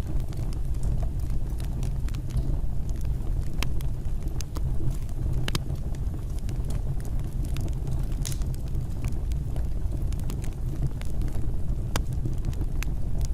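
Fireplace fire burning: a steady low rumble of flames with frequent sharp crackles and pops scattered throughout.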